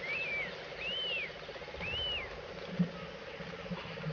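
A bird repeating a short whistled note that rises and falls, three times about a second apart, over a steady insect buzz.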